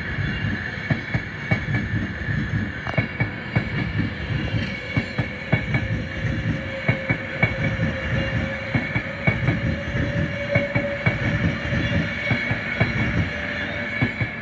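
Avanti West Coast Class 390 Pendolino electric train passing close by at speed: its wheels rumble and clack over the track, with a steady high whine above. The sound eases as the last coach goes by near the end.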